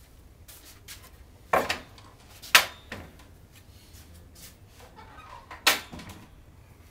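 Three sharp knocks, the first about a second and a half in, the next a second later and the last near the end, with a few smaller clicks between them.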